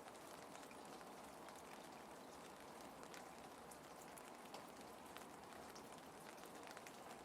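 Gentle, steady rain, faint, with scattered light drop ticks.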